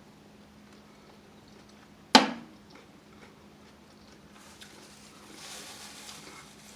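Close-up eating sounds: one sharp click about two seconds in, then soft, uneven chewing noise near the end.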